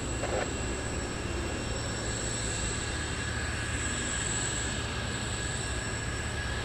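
Jet aircraft engines running steadily, with a constant high-pitched turbine whine over a broad rush.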